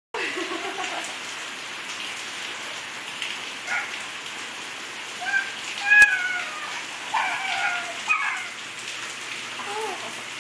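Steady rain falling on a hard surface, with a few short, high-pitched bending calls or squeals over it and a sharp click about six seconds in.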